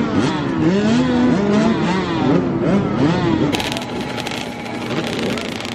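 Several motocross dirt bike engines revving and passing on the track, their pitch rising and falling as riders accelerate and shift. About halfway through the engines fade and a rapid crackle of clicks takes over.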